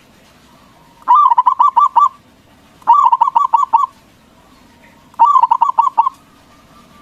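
A zebra dove (Javanese perkutut) singing its cooing song three times. Each phrase lasts about a second and is a quick run of rolling coos, with short pauses between the phrases.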